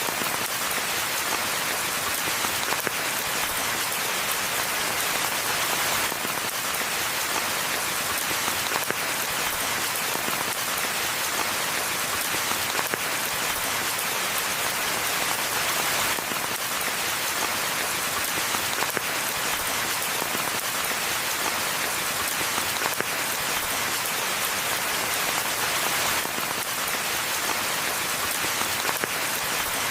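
Steady rainfall: an even, unbroken hiss of many drops, with no thunder.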